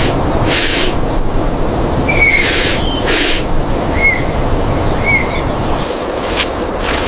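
Outdoor ambience: a steady rumbling noise with several short hissing swishes, and a bird giving three or four brief chirps.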